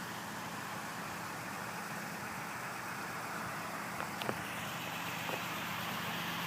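Vehicle engine idling steadily, with a couple of light clicks about four seconds in.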